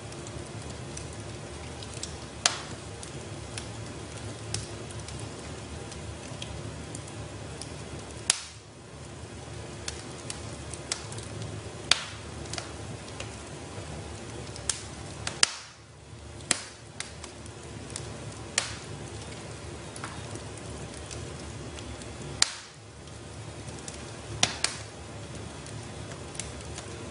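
Wood fire burning in a fireplace: a steady low rush of flame with sharp crackles and pops every second or two. The sound drops briefly three times.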